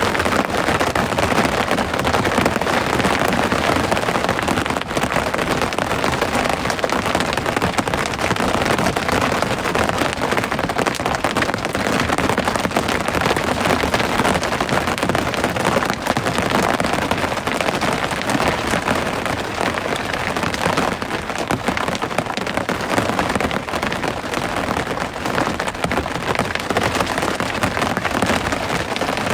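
Rain falling steadily: a dense, even patter of many drops with no pauses or breaks.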